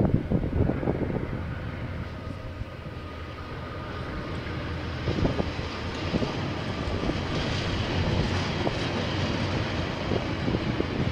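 Train passing, a steady rumble that grows louder through the middle, with gusts of wind buffeting the microphone near the start.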